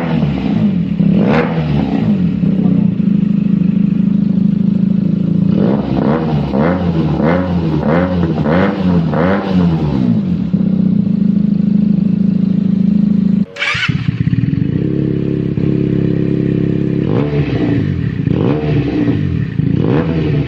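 Benelli TNT 300's parallel-twin engine running through its exhaust: a steady idle broken by throttle blips, including a run of about six quick revs in quick succession. A brief break about two-thirds of the way in is followed by more idling and blips.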